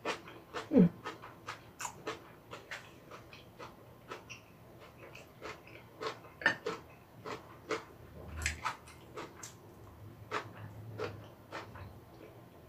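Close-miked ASMR eating sounds: irregular wet chewing and mouth clicks from a mouthful of tofu kimchi and rice, with light taps of wooden chopsticks on a rice bowl. A short falling sound comes about a second in.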